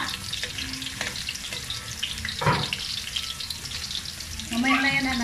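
Cubed carrots frying in oil in a wok, a steady sizzle, with a metal spatula stirring them.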